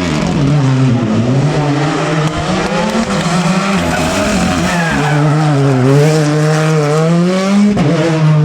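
Rally car engine running hard under load on a stage, its pitch dipping and climbing several times, with a sharp drop and rise near the end.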